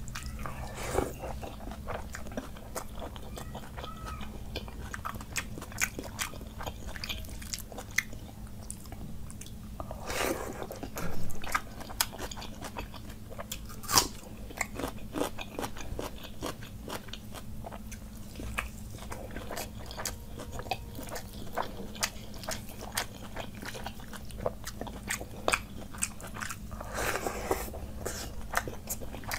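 Close-miked eating of panta bhat (soaked rice) by hand with fried fish and side dishes: steady chewing with many wet mouth clicks and crunches. There are two longer noisy stretches, about ten seconds in and near the end.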